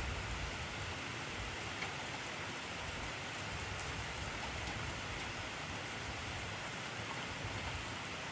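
Intense rainfall: a steady, even hiss of heavy rain with scattered faint drop ticks. A low rumble dies away within the first second.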